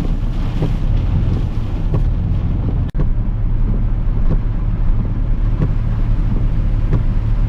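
Car interior noise while driving: a steady low engine and road rumble with some wind noise, broken by a brief dropout about three seconds in.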